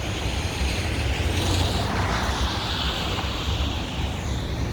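Street traffic in a snowstorm with wind rumbling on the microphone; a vehicle passes, its noise swelling and fading about two to three seconds in.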